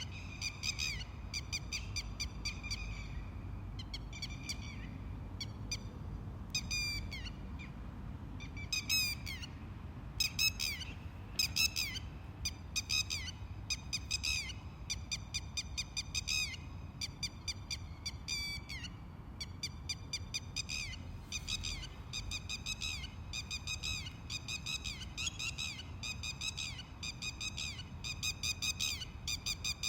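Sparrows chirping in quick runs of short, repeated chirps, several a second, thinning out in the middle with a few sweeping notes. A low steady rumble runs underneath.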